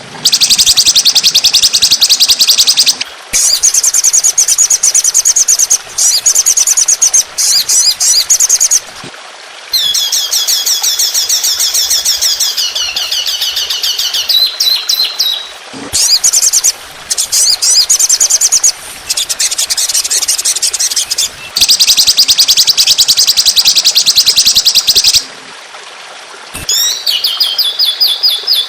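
Loud songbird trills used as a masteran training recording for songbirds: long 'tembakan' runs of very rapid, high-pitched repeated notes, each run a second to a few seconds long, separated by short pauses. Some runs are made of repeated downward-sweeping notes.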